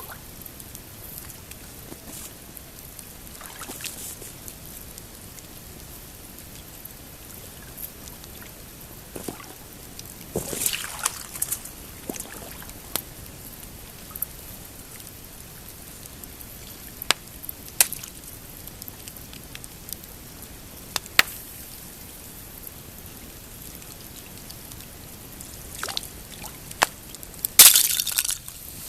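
Pine campfire crackling, with scattered sharp pops and snaps over a steady soft hiss, the loudest cluster near the end. Small waves lap and slosh against the rocky shore.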